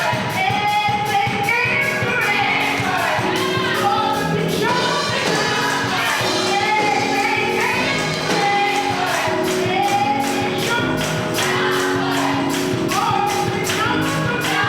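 Live gospel music: a choir singing held, gliding notes over band accompaniment, with a steady percussion beat of about two to three strokes a second.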